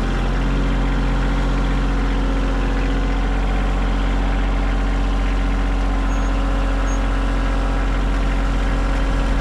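Compact tractor engine running steadily at a constant speed with a deep, even hum.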